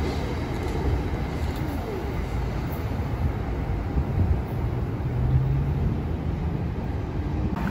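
Low rumble of a New Jersey Transit commuter train running away into the distance, blended with steady city traffic noise.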